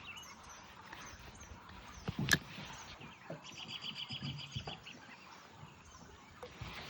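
Birds calling: short high chirps throughout, with a fast trill about three and a half seconds in. A single sharp click about two seconds in.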